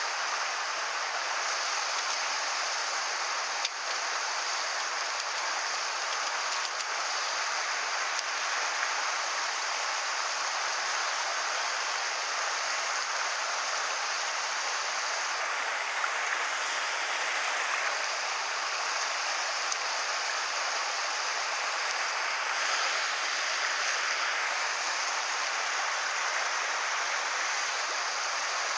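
Mountain stream rushing over rocks, a steady wash of water noise.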